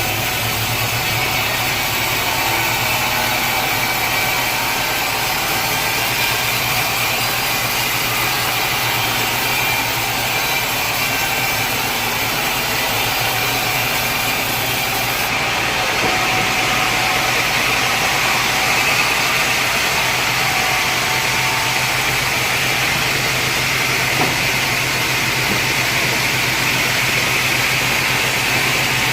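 Sawmill machinery running steadily: a constant low hum under a higher whine, which grows stronger about halfway through.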